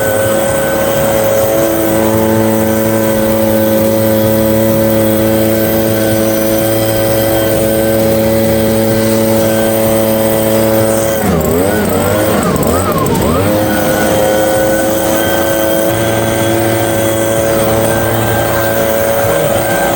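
Handheld motorised garden tool running at a steady high speed. About eleven seconds in the pitch wavers and drops briefly, then picks back up to the same steady speed.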